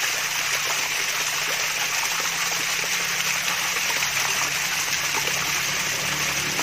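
Water from a mini waterfall running and splashing steadily, with a faint low hum underneath from about a second in.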